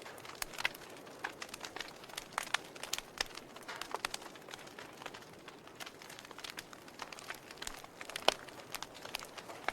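Logs burning in a fireplace, crackling with irregular pops and snaps, one sharper pop about eight seconds in.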